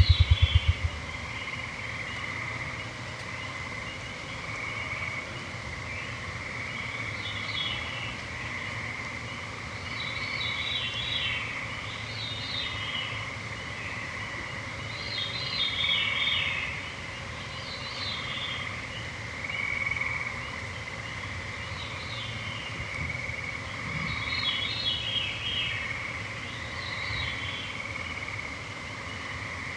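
Songbirds repeatedly singing short downward-sliding phrases, one every two to three seconds, over the steady high whine of a cloud of mosquitoes. A low rumble cuts off about a second in.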